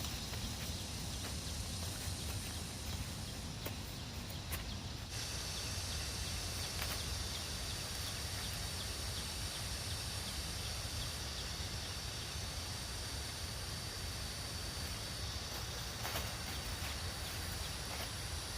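Outdoor rural ambience: a steady high-pitched drone that grows stronger about five seconds in, over a low rumble, with a few faint clicks.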